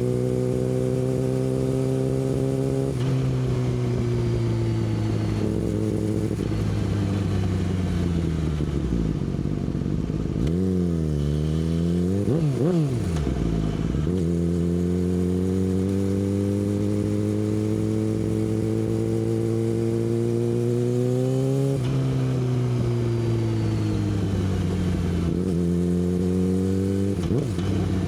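Yamaha R6 inline-four with an Akrapovič exhaust, ridden on the road. The engine note drops at a gear change and falls away as the bike slows, then comes a few quick throttle blips in the middle. After that it pulls steadily, with a few more gear changes and a short blip near the end.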